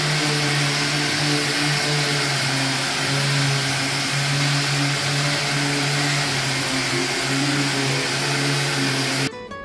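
Electric power tool's motor running steadily under load with a strong hiss over its hum. It cuts off suddenly near the end.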